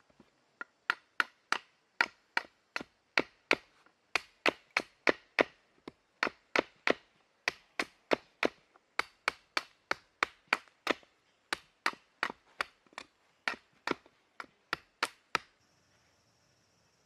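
Firewood being chopped: rapid, even strikes about three a second that stop shortly before the end.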